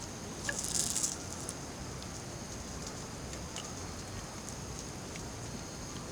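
Campfire crackling with scattered small pops and a short, louder hiss about half a second in, over a steady high-pitched drone.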